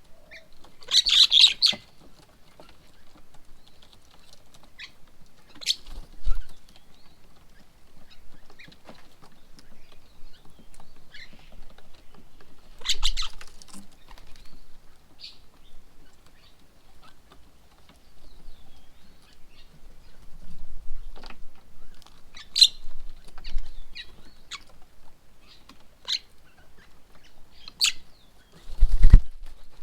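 Birds at a feeding table giving scattered short chirps and calls, with a few louder harsh bursts, one about a second in and another about halfway. A strong low thump comes near the end.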